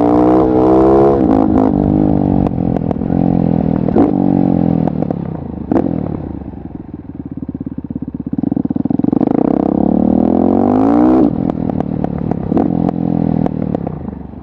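KTM 690 SMC R's single-cylinder engine through a LeoVince exhaust: revs falling with a couple of sharp pops, then chugging at low revs with each firing pulse distinct. About halfway through it revs up in a rising sweep, cuts off suddenly just past the two-thirds mark and drops back to slow chugging.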